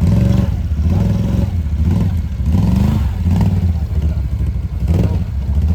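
ATV engine running and revving, its pitch rising and falling several times as the throttle is worked.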